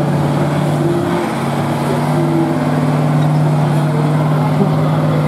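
Truck engine running at fairly steady revs, with a slight rise in pitch about a second in.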